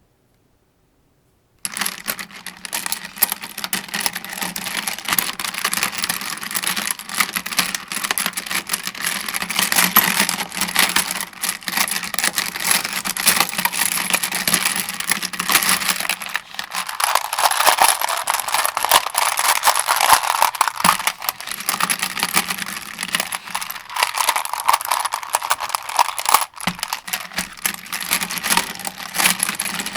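Cartridges being loaded into an AK-47 75-round drum magazine: a continuous run of metallic clicking and rattling that starts after a second or two of silence, with a couple of sharper clicks in the second half.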